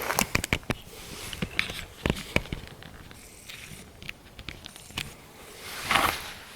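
Footsteps on dry, rough ground: irregular crackles and clicks, with a longer rustle near the end.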